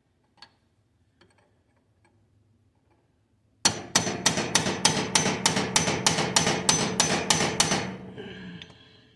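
Hammer beating on a steel punch, about fifteen quick, even blows with metal ringing between them, driving at a stuck part on a Kubota BX2200's front drive shaft to get it moving.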